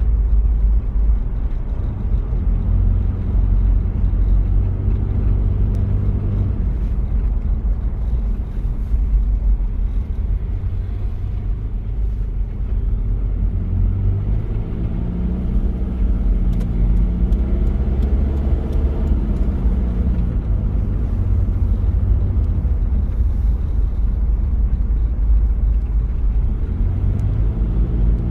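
1993 Toyota Prado's diesel engine running while driving, a steady low rumble. Its pitch rises and falls a few times around the middle as engine speed changes.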